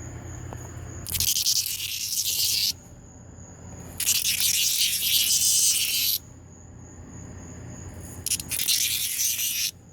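A cicada buzzing loudly in three bursts of about one and a half to two seconds each. Each burst starts and stops abruptly, with pauses of a second or two between them.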